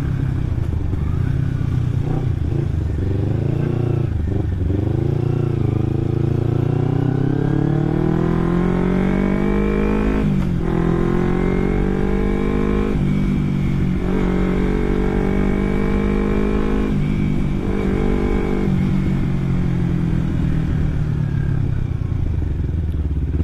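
Carburetted Kawasaki Ninja 250 parallel-twin engine running through an Akrapovic aftermarket exhaust, uneven at low speed at first. It then accelerates, its pitch climbing and dropping sharply at each upshift, four times in the second half.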